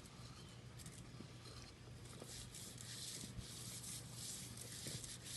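Hands rubbing coarse salt and seasoning into a raw beef rib: a run of scratchy rubbing strokes that gets busier about two seconds in.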